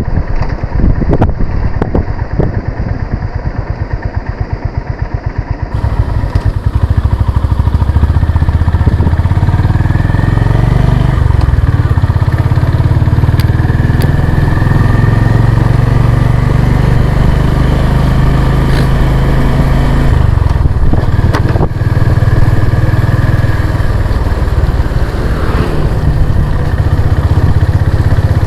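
Honda CB350 RS motorcycle's air-cooled single-cylinder engine running under way. It is lighter at low revs at first, then about six seconds in it opens up and runs louder, its pitch stepping up and down with throttle and gear changes.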